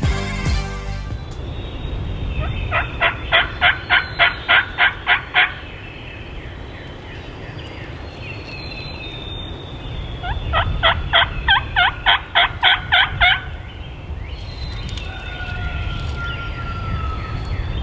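Turkey box call worked in two runs of about ten loud, evenly spaced yelps each, several seconds apart, calling to draw in a gobbler. Steady low wind noise on the microphone underneath.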